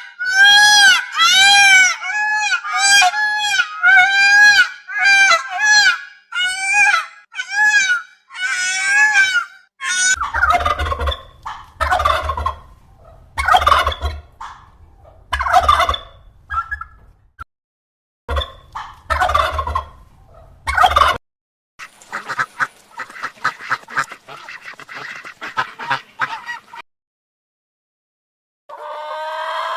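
Domestic fowl calling. First comes a fast run of repeated honking calls, several each second, for about ten seconds. Then rougher, lower calls follow in bursts over a low hum, then fainter rapid chatter, and after a brief pause a new call starts near the end.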